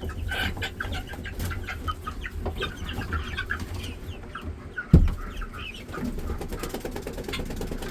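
A flock of poultry, guinea fowl and chicks among them, clucking and chirping in many short overlapping calls. One sharp thump about five seconds in.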